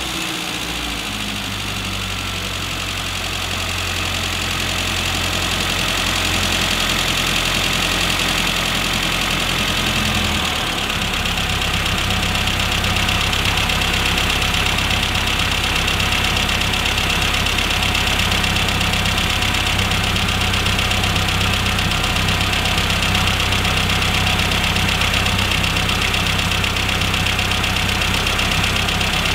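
Classic Mini's A-series four-cylinder engine idling steadily under an SU carburettor while its idle speed is adjusted; the engine note shifts about ten seconds in.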